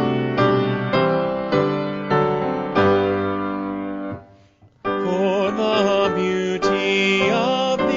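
Piano playing the introduction to a hymn, with chords struck in turn. After a brief pause about halfway through, the hymn begins, and a voice with vibrato sings over the piano.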